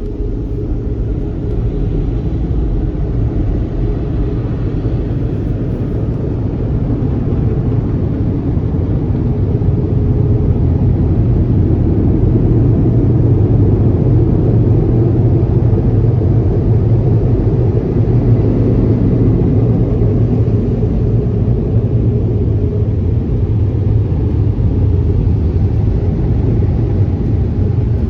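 Automatic car wash air dryers blowing over the car, heard from inside the cabin as a steady low rumble that swells a little in the middle.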